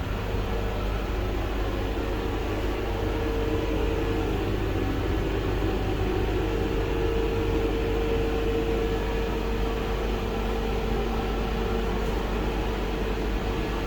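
Steady running noise inside a Vande Bharat Express coach: an even low rumble with a mid-pitched hum that drops out briefly and returns.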